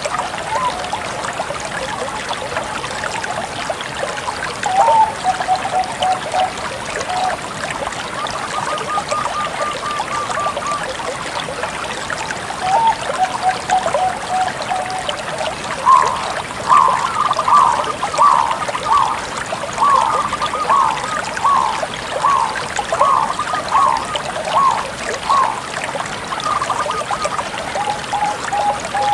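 Zebra dove (Bangkok-type perkutut) cooing in repeated phrases of short, clear notes, with a long run of quicker notes in the second half. A steady hiss runs underneath.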